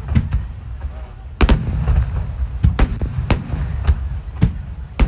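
Ten-inch (shakudama) aerial firework shells bursting in rapid succession: about ten sharp bangs in five seconds over a continuous low rumble.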